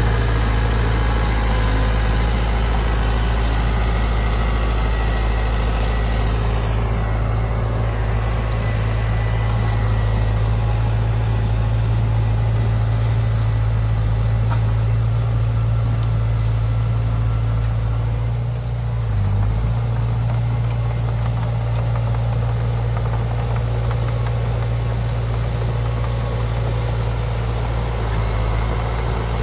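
Diesel-type vehicle engine idling steadily with a deep, even hum, dipping briefly a little past the middle.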